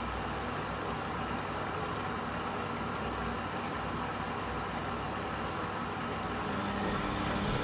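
Washing machine running steadily mid-programme, a low mechanical hum with an even wash of noise over it, growing a little louder near the end.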